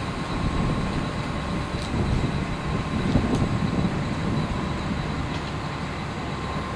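Charter passenger train standing at a platform: a steady low rumble from its running equipment, with a thin constant whine over it.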